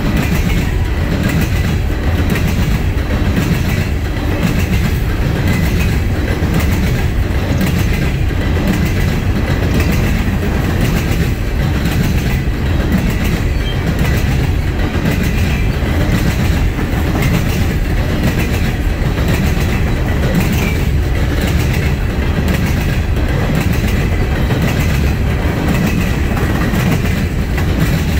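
Norfolk Southern coal train's gondola cars rolling past at speed: a steady loud rumble of steel wheels on rail with a repeating clickety-clack as the wheel sets pass.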